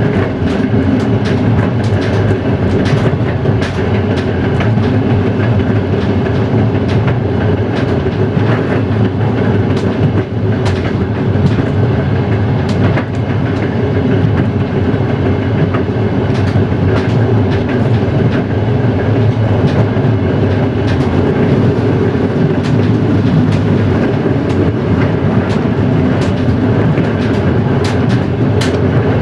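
Train running at speed on jointed track: a steady rolling rumble with irregular wheel clicks over the rail joints.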